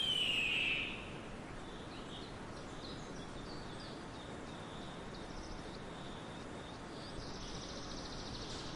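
Red-shouldered hawk giving one loud descending scream right at the start. Faint chirps from small birds follow over steady outdoor background noise.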